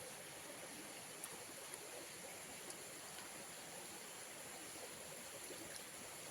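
Faint steady background noise with a few soft ticks.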